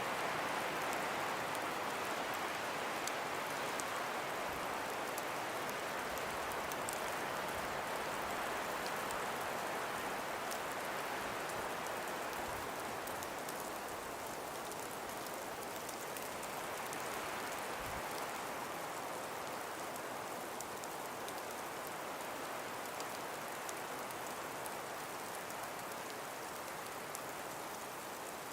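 Steady breeze hissing through forest trees, slowly swelling and easing, with faint scattered light ticks.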